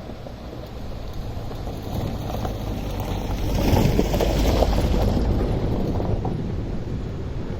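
Wind rushing over the microphone with a heavy low rumble, swelling loudest about halfway through and then easing off.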